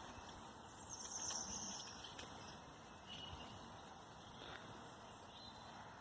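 Faint outdoor background with a few brief, faint high chirps from birds, the clearest about a second in.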